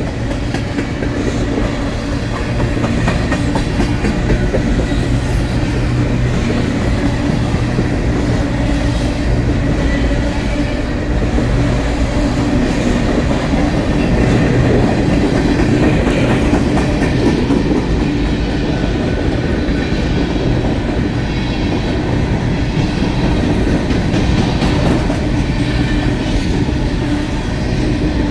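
Freight train cars rolling past, a steady, loud rumble of steel wheels on the rails.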